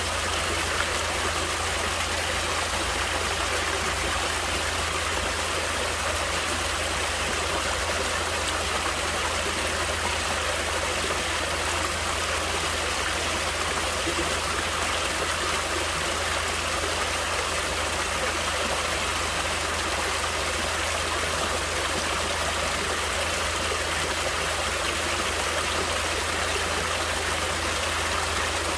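Flowing water of a stream, a steady, unbroken rush with a low rumble underneath.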